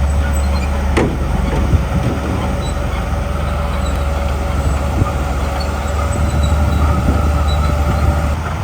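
Komatsu D41P bulldozer's diesel engine running steadily with a deep rumble and a steady whine, with scattered metallic knocks and clanks, the sharpest about a second in.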